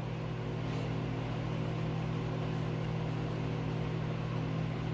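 A steady low hum with several constant tones over a faint hiss, unchanging throughout.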